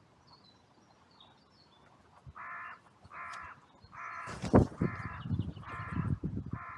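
Carrion crow cawing six times in an even series, starting about two seconds in. Low thumps and knocks sound along with the later caws, the loudest a sharp knock soon after the third caw.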